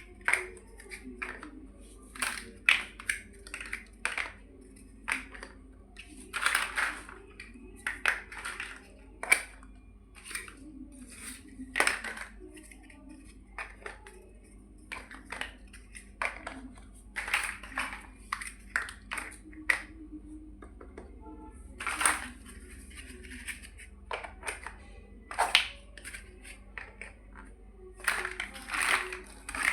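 Plastic building bricks clicking and clattering as they are handled and pressed together, in irregular sharp clicks, some in quick clusters.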